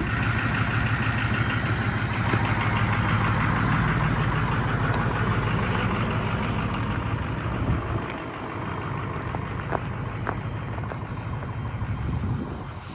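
A vehicle engine idling steadily. It grows fainter about eight seconds in and fades further near the end.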